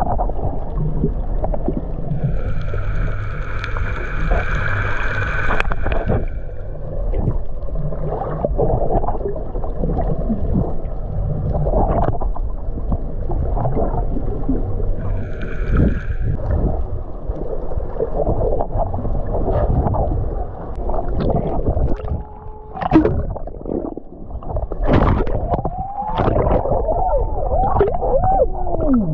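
Muffled underwater water noise with bubbling and crackling, heard through a camera held underwater while snorkeling. A steady high-pitched tone sounds for a few seconds near the start and again briefly about halfway.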